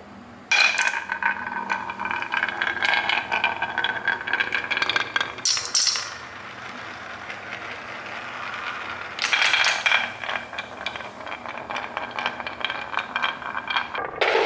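Small hard toy pieces rattling and clinking in a dense clatter, in two long bouts about half a second and nine seconds in, with a softer rattle between them.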